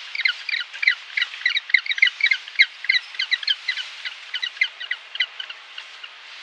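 A rapid series of short, high chirps, several a second, over a faint steady hiss, thinning out near the end.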